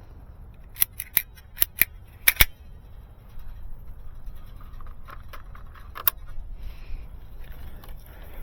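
Sharp clicks from a hand tool being worked: about six in quick succession in the first two and a half seconds, then a single one about six seconds in.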